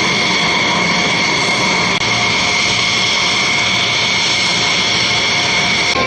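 Jet engine running with a steady high-pitched whine over a rushing roar, holding at one pitch without rising or falling.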